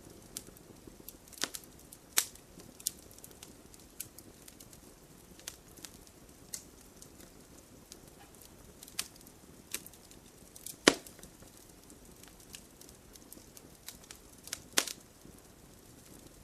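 Campfire crackling: burning wood gives irregular sharp pops and snaps over a low steady hiss of flame. There is one louder pop about eleven seconds in and another near the end.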